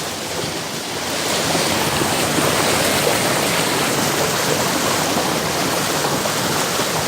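Fast-flowing mountain creek rushing over rocks: a steady, dense water rush that grows a little louder about a second in.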